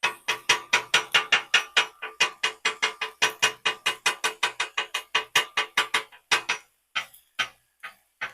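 Metal spatula edge chopping rapidly against a steel flat-top griddle, about five ringing clanks a second, breaking up the egg whites. The strikes slow and thin out near the end.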